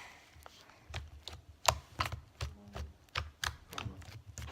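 Slime being squeezed and poked by hand, giving a string of irregular sharp clicks with soft thumps under them.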